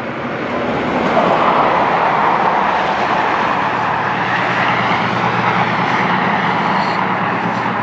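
Steady road traffic noise from vehicles passing on a highway, swelling slightly in the first second and then holding with a low hum underneath.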